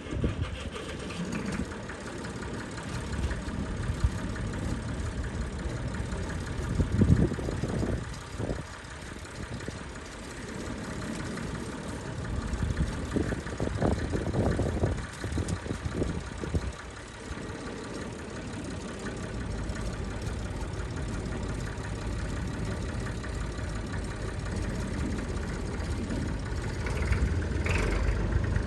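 Vintage tractor engines running with a steady low rumble, swelling in loudness a few times.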